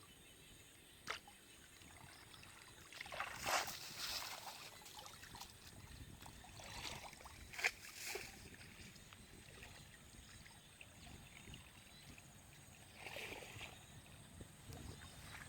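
Water splashing and sloshing a few times, with the sharpest splashes about three and a half and seven and a half seconds in, over a faint background.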